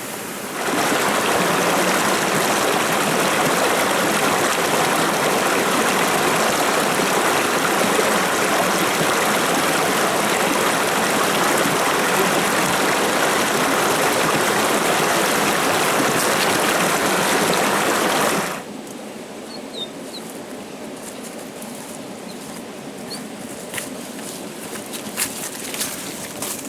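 Steady rushing water, like heavy rain or a fast stream, that cuts off abruptly about eighteen seconds in. After it stops, a quieter background remains with a few faint bird chirps and light ticks.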